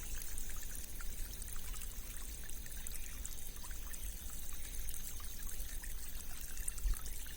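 Small rain-fed stream flowing: a steady trickle of water with faint tinkling bubbles.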